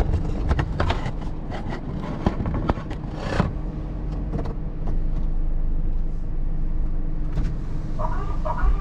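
Car engine running steadily as the car is moved out of an automatic car wash, with scattered clicks and a short whoosh about three seconds in. The engine sound grows a little louder about five seconds in.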